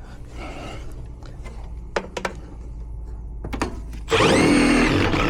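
Cordless drill driving a sheet-metal screw, its motor whining up to speed about four seconds in after a few light clicks of handling. Its battery is one that the user fears is about to die.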